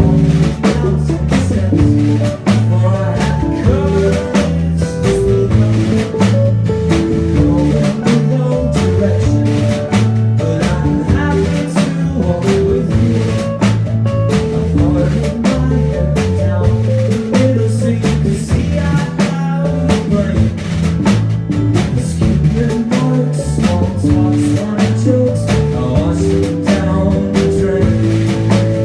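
Live rock band playing: drum kit, electric guitar, bass and keyboard in a full, steady groove.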